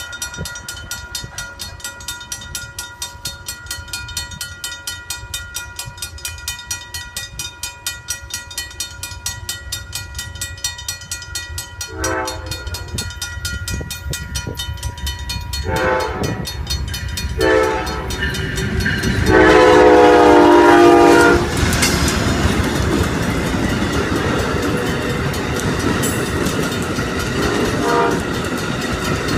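Railroad crossing bell ringing with a steady, even stroke. About twelve seconds in, an approaching Amtrak train's horn sounds three short blasts and then one long, loudest blast as it nears the crossing. The passenger train then rolls through with a steady rumble and wheel clatter over the bell.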